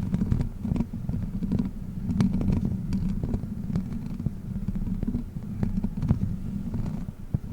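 Witch-finger prop rubbed and tapped right against the microphone: a dense low rumble with many small scattered clicks.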